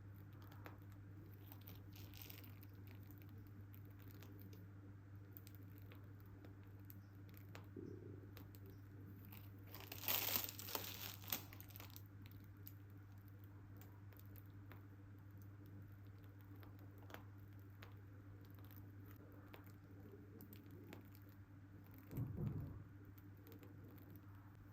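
Faint steady low hum with a brief crinkling rustle about ten seconds in and a softer, shorter handling noise near the end.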